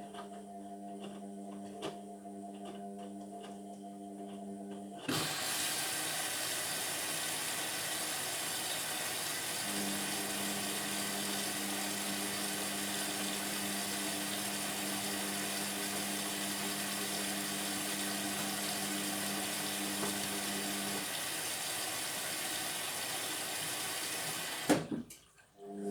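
Indesit washing machine taking in water: about five seconds in, a loud rushing hiss of water starts and runs steadily for about twenty seconds, then stops abruptly with a click near the end. A steady low hum is heard before the water starts and partly underneath it.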